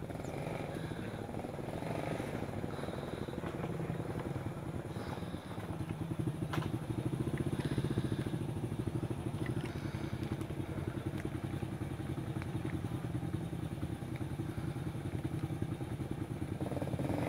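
Small underbone motorcycle engine running steadily at low revs as the loaded bike is walked and then ridden slowly through deep mud. It gets a little louder about six seconds in.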